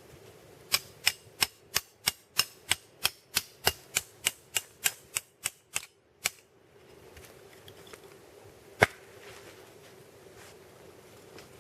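Splitting firewood into kindling with a knife: a quick series of sharp wooden knocks, about three a second, that stops after about six seconds, then one single, louder knock a few seconds later.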